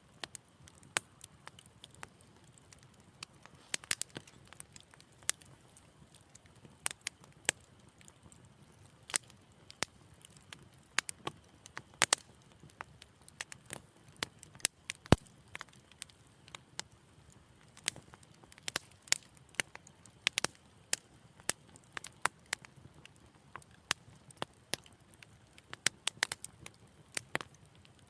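Wood fire in a fireplace crackling, with irregular sharp pops and snaps over a faint low hiss; one pop about halfway through stands out as the loudest.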